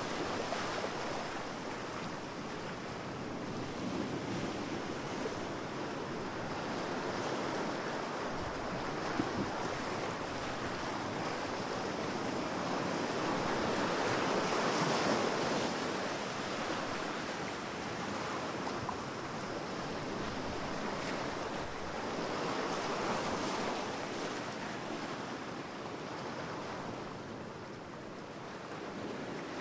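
Sea waves breaking and washing on a beach, swelling and easing every few seconds.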